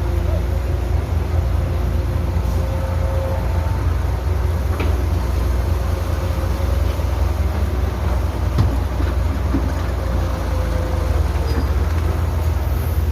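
Heavy diesel construction machinery (excavator and dump trucks) running steadily with a deep rumble, with a few sharp knocks.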